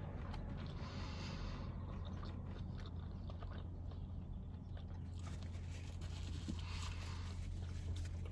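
Close-mic chewing and biting of a burger, with crackly bursts about a second in and again from about five seconds on, over a steady low hum.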